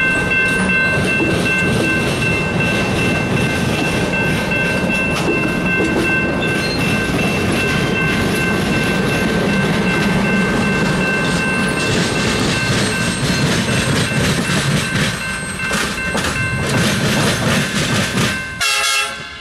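Passenger cars of a train rolling past close by, their wheels clicking over the rail joints, with a steady high whine. The rolling noise drops away near the end as the last car passes.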